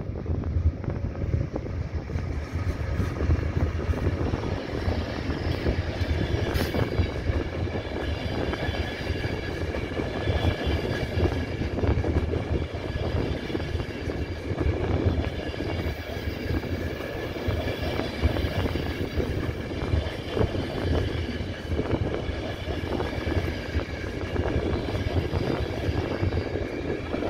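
Electric-hauled passenger night train running through a station: a steady rail rumble with the clatter of coach wheels over the track, a thin high whine running over it, and one sharp clank about six seconds in.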